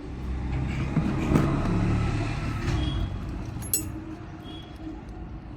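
A motor vehicle's engine running past, loudest over the first few seconds and then fading away, with a sharp metallic click partway through.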